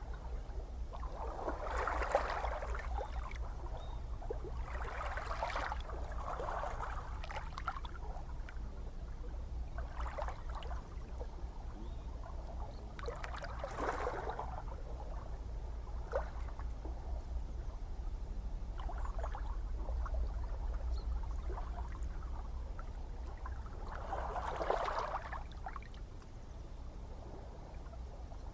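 Gentle ocean waves lapping and splashing every few seconds over a steady low rumble of surf, the biggest splashes about two seconds in, halfway through and near the end.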